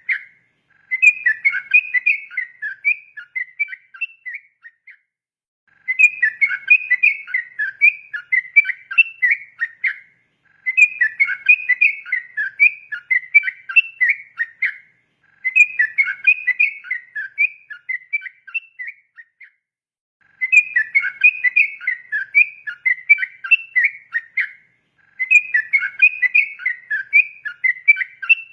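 Yellow-vented bulbul (trucukan) singing fast, chattering whistled phrases in bouts of about four seconds, separated by pauses of about a second, six bouts in all.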